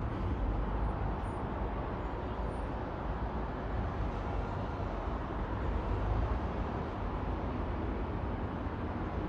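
Steady low rumble of a vehicle on the move, with even road noise and no change in pitch.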